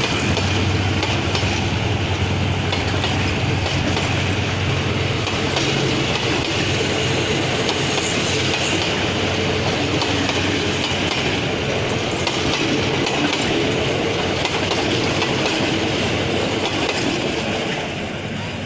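Train running through the station, its wheels clattering over rail joints with a low hum under a steady rumble. The sound tails off near the end.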